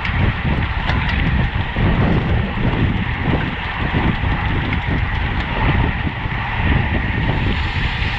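Wind rushing over the microphone while riding a road bike at race speed, a steady low rumble with a hiss above it.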